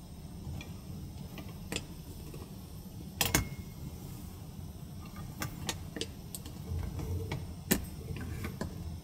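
Scattered light clicks and taps at uneven intervals, the loudest about three seconds in and again near the end, over a steady low rumble.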